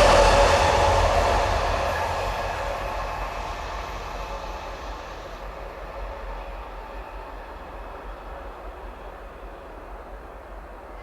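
A train going by and moving away, its tones dipping slightly in pitch as it passes. The sound then fades steadily over about ten seconds.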